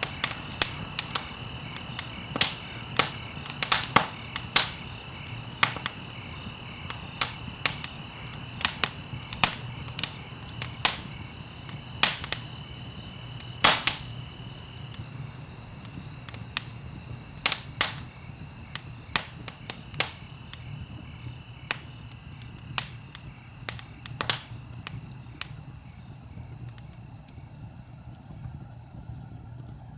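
Wood fire crackling in a fireplace: irregular sharp pops and snaps, several a second, over a steady low rumble. The pops thin out in the last few seconds.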